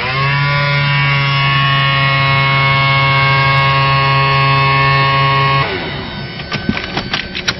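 Steady electric hum in a light aircraft's cockpit, switched on sharply, dipping briefly in pitch as it comes up, then holding one even tone until it cuts off after about five and a half seconds, during the pre-start checks.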